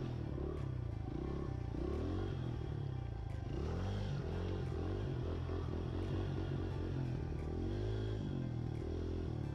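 Pit bike engine revving, its pitch rising and falling over and over as the throttle is worked on and off.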